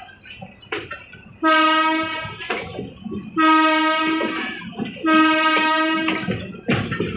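Train horn sounded in three blasts of about a second each, a single steady tone, as the train warns at a level crossing, with rattling noise between them.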